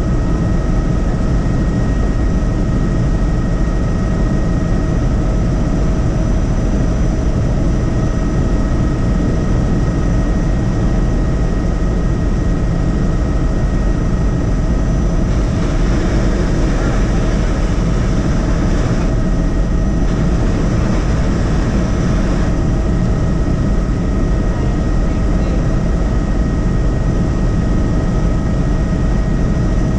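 Helicopter in flight heard from inside the cabin: a loud, steady drone of rotor and engine with several constant whining tones over it.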